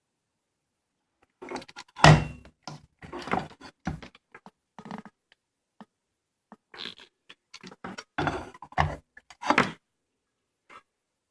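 Irregular knocks, clicks and thunks in two clusters, the loudest a heavy knock about two seconds in, with quiet gaps between them and no motor running.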